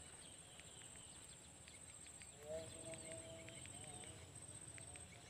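Faint rural wetland ambience: a steady high insect buzz with scattered short chirps. About two and a half seconds in comes a distant, held animal call lasting about a second.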